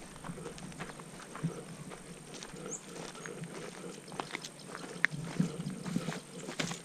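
Footsteps walking along a dirt track, a run of irregular crunching steps.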